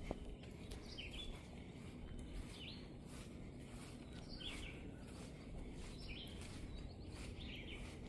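Birds chirping faintly in a quiet outdoor ambience, short high calls repeated about once a second.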